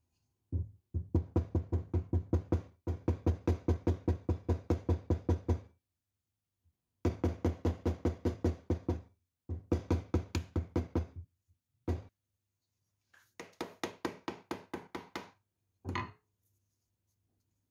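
Rapid, even knocking, about six strokes a second, in several runs of a few seconds with short pauses between, and a couple of single knocks near the end.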